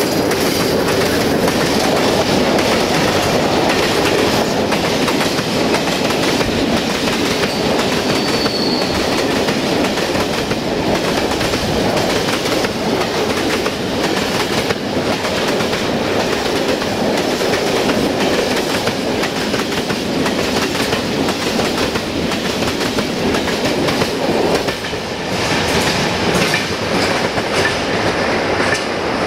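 Rail tank wagons of a freight train rolling past close by, their wheels clattering over the rail joints in a steady clickety-clack.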